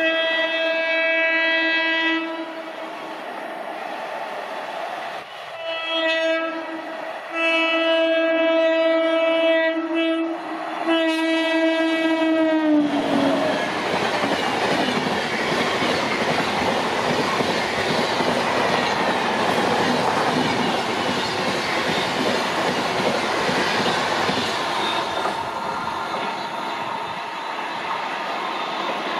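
WAP7 electric locomotive's air horn sounding in several long blasts as it approaches, the last dropping in pitch as the engine passes. The double-decker express coaches then run by with a steady rushing clatter of wheels on rail that eases off as the train moves away.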